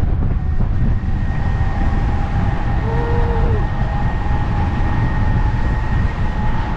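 Heavy wind rumble on the microphone while riding a small scooter through traffic, with a faint steady whine running under it. A brief tone sounds about three seconds in.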